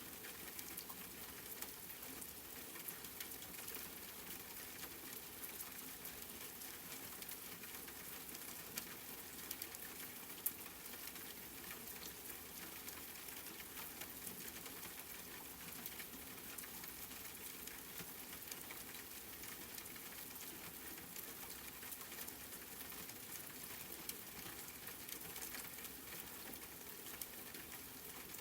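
Steady rain falling: an even hiss dense with small drop ticks, with one sharper drop about ten seconds in.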